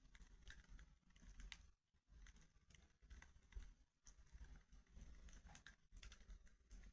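Wood fire crackling faintly, with small irregular pops and ticks.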